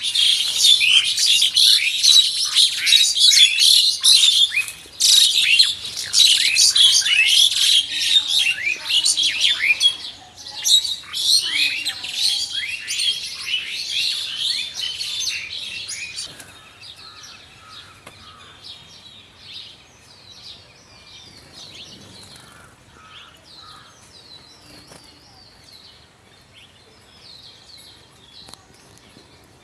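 Many small birds chirping together in a dense chorus of quick, high, overlapping chirps. The chorus is loud for about the first half, then thins out to fainter, scattered chirps.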